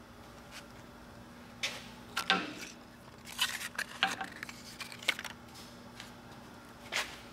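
A string of sharp metallic clinks and knocks, as of metal parts or tools being handled at a machine, over a faint steady hum.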